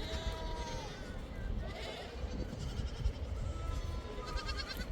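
A flock bleating: several wavering calls one after another, over a steady low rumble.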